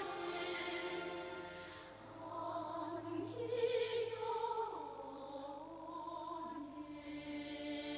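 Operatic singing with a wavering vibrato over sustained orchestral accompaniment, dipping briefly about two seconds in before the voice returns.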